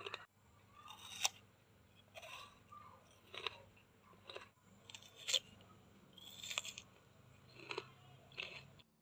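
Close-up crunching and chewing of crisp food, about eight sharp crunches roughly a second apart.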